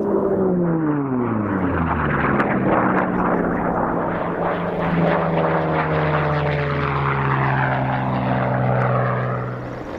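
Unlimited-class propeller race plane flying past at high speed, its engine note dropping steeply in pitch as it goes by, then settling into a steady drone that sags slowly in pitch and drops off near the end.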